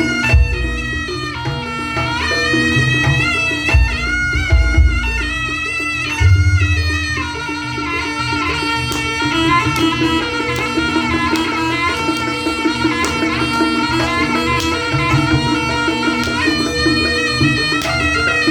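Jaranan music from a Javanese ensemble: a slompret (shawm) plays a wavering, reedy melody over a steady drone and drumming, with deep gong-like strokes near the start and around four and six seconds in.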